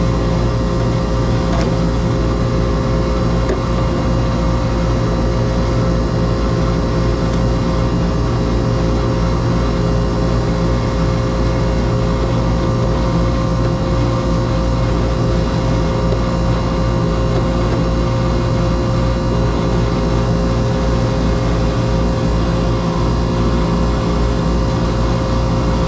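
Air conditioner condenser unit running steadily: an even compressor hum with the rush of the condenser fan.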